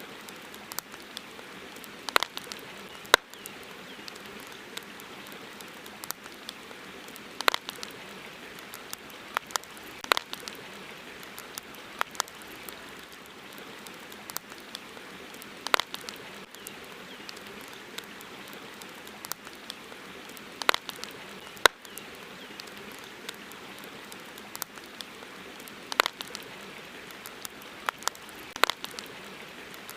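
Campfire crackling, with sharp, irregular pops every second or two over the steady hiss of river water.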